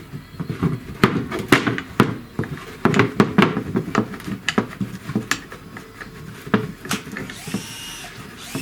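Small steel engine parts clicking and knocking together in quick irregular succession as rocker arms and hydraulic valve lifters are handled and worked apart by hand. A short scraping hiss follows near the end.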